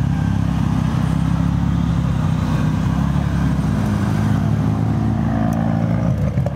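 Mazda RX-7 (FD3S) twin-rotor 13B rotary engine running at low revs as the car rolls slowly past, a steady deep drone with no sharp revving.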